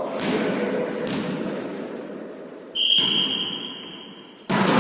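A volleyball being struck twice with an echo in the sports hall, then a high, steady whistle lasting about a second and a half, the kind blown by a referee to stop a rally. A sudden loud noise cuts in near the end.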